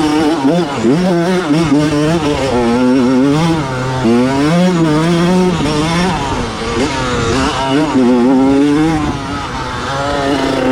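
1987 Honda CR125's single-cylinder two-stroke engine, its pitch rising and falling again and again as the throttle is worked.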